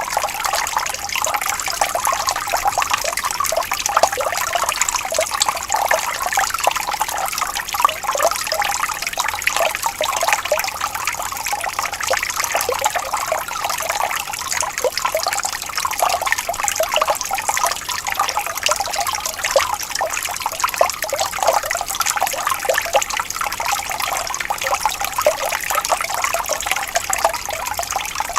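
Water trickling and babbling steadily over stones, with many small quick splashes.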